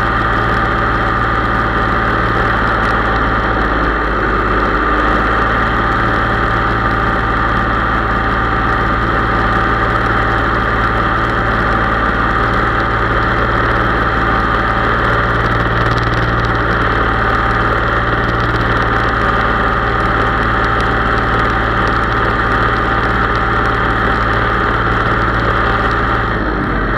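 Case IH 3220 tractor's diesel engine running steadily, its level easing off slightly near the end.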